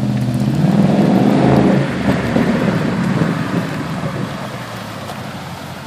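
2013 Mustang's 5.0 V8 through Flowmaster Outlaw exhaust, with stock cats, accelerating hard and rising in pitch. About two seconds in it drops off, then fades away steadily.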